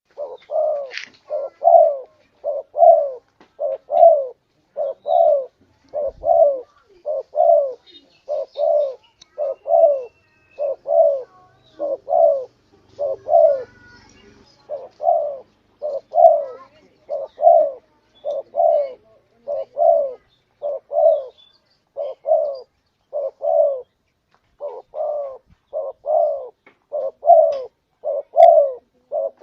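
Spotted dove (tekukur) calling: a long, steady run of short, low coos, about one and a half to two a second, broken by a couple of brief pauses.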